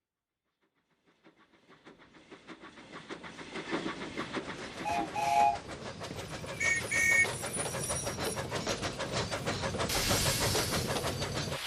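Steam locomotive chuffing, fading in and growing louder, with a two-tone whistle sounding about five seconds in and two short higher toots just after. Near the end a loud hiss of steam rises over the chuffing.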